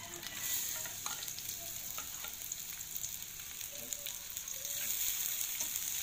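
Onions and garlic sizzling in hot oil in a wok. The sizzle grows louder about half a second in as sliced vegetables drop into the pan, with a few light clicks of a metal ladle.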